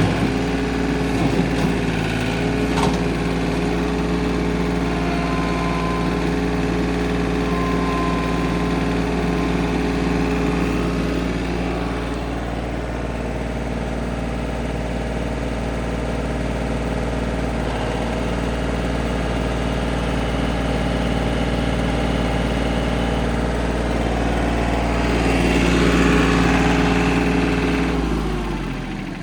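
2003 John Deere 4210 tractor's diesel engine running steadily. The sound changes about eleven seconds in, grows louder around twenty-six seconds, and the steady engine tone drops away just before the end.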